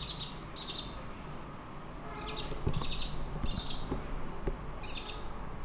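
A young chicken cheeping in short high peeps, six or so spread irregularly, several in quick succession around the middle.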